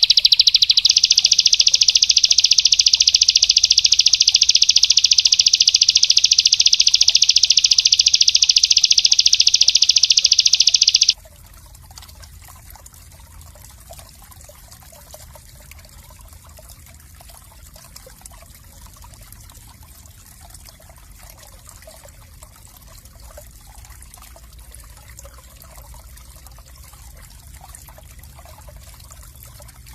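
A small songbird singing one long, very fast rapid-fire trill for about eleven seconds, which stops abruptly; after it, only a soft steady trickle of water.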